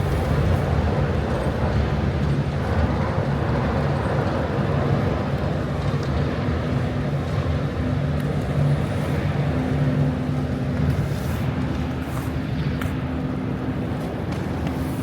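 Steady rumble of city street traffic with a low engine hum, and wind on the microphone.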